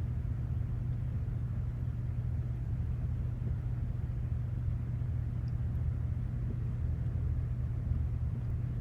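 Steady low hum with faint background hiss, unchanging throughout.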